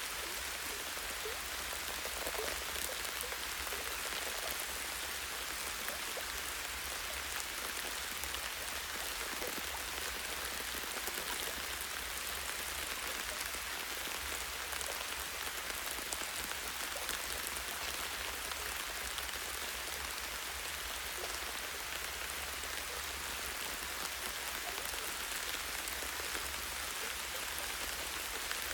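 Steady light rain falling on a tree branch and leaves in a forest, an even hiss with scattered individual drop taps.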